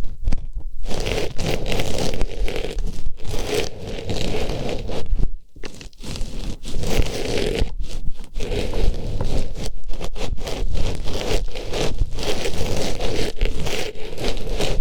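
An artificial flower pushed into and rubbed around a microphone's ear as ASMR ear cleaning: close, continuous scratchy rustling, broken by a few short pauses.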